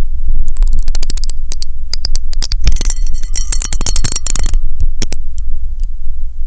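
Rapid sharp clicks and crackles, densest in a crackling burst in the middle, over a steady low hum.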